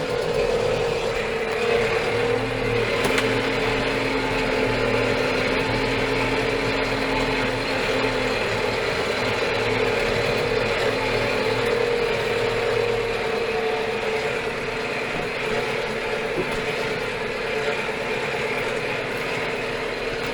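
Steyr 4075 Kompakt tractor's four-cylinder FPT diesel engine running steadily, with a mechanical whine over the engine note; one of its lower tones drops away about eight seconds in.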